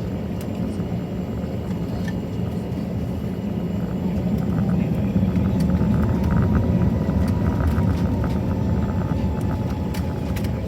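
Airbus A321 jet rumble heard from inside the economy cabin, growing louder about four seconds in, with a run of rattling from the cabin as on the takeoff roll.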